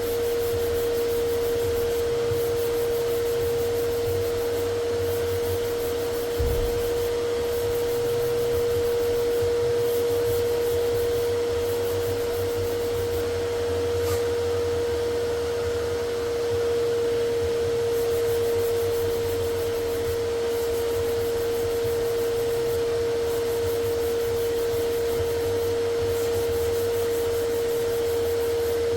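An electric tool's motor running steadily with a constant hum and a rushing, rubbing noise, as from a dust extractor, heat gun or sander used on the car body. There is a single thump about six and a half seconds in.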